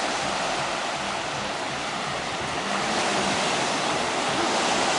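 Large campfire burning, a steady rushing hiss of flames.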